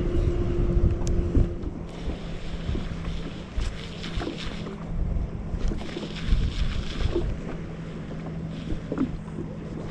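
Wind rumbling on the microphone on open water, with a steady low hum underneath and a few faint knocks.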